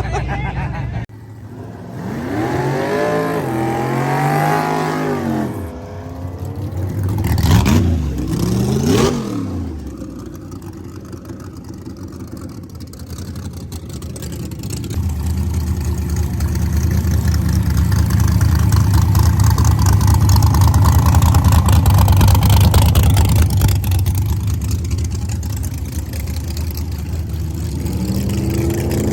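Drag-racing car engines revving, their pitch rising and falling several times in the first few seconds, then a steady, loud, low engine drone from about halfway through.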